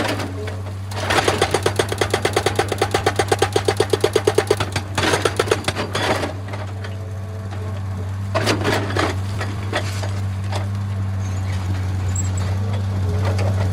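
An excavator's diesel engine runs steadily while its hydraulic rock breaker hammers against stone in a rapid even rhythm of about ten blows a second for several seconds. After that come a few louder knocks and rock clatter, then the machine keeps running.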